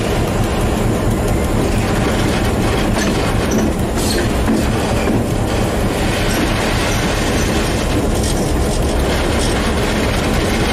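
Diesel locomotive running along the track, heard from its cab: a steady, loud mix of engine and wheel-on-rail noise, with a few faint clicks.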